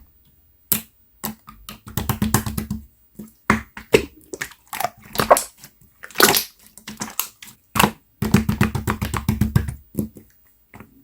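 Watery, loose slime being squished and worked by hand, making runs of rapid wet clicks and pops with short pauses between them, the densest runs about two seconds in and again near the end.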